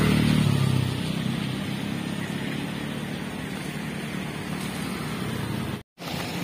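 A motor vehicle's engine going past, loud at the start and fading away within the first second, leaving a steady broad noise. The sound cuts out completely for a split second near the end.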